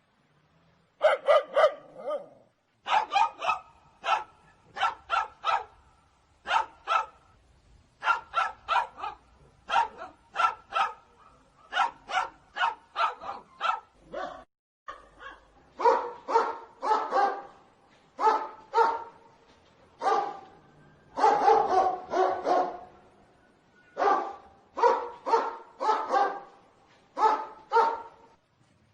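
Dogs barking repeatedly in short, sharp barks, some single and most in quick runs of two to four, with brief pauses between the runs.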